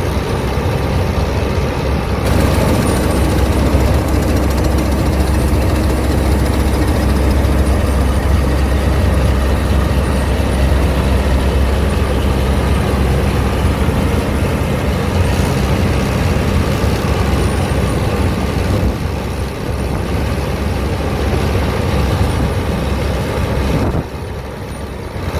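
Claas Mercator 50 combine harvester running steadily under load, its engine and machinery a continuous loud drone. It swells about two seconds in and eases off slightly near the end.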